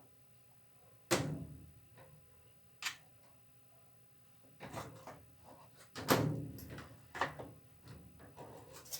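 A series of knocks and clunks from hard washing-machine parts being handled and fitted during reassembly, with the loudest about a second in and another about six seconds in.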